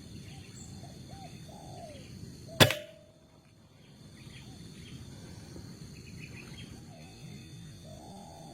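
A single sharp air-rifle shot about two and a half seconds in, with a brief ringing tone after it, over a steady background of insects buzzing and birds giving short calls; a longer falling bird call comes near the end.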